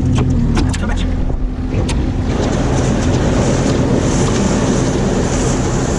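A motor vehicle's engine running, with a few sharp clicks in the first two seconds. From about two seconds in, a loud rushing wind noise on the microphone takes over.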